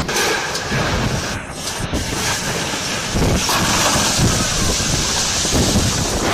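Strong storm wind blowing hard across the microphone, a loud steady roar that swells and dips in gusts.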